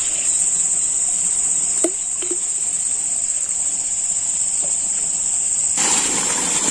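Insects calling in one steady, unbroken high-pitched drone. A short knock sounds about two seconds in, and a rushing noise joins the drone near the end.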